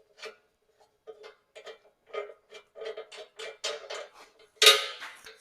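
Steel sawmill parts being fastened with 3/8-inch lock nuts and bolts: a run of metallic clicks, about three a second and getting louder, over a faint steady hum, then a loud metallic clank near the end.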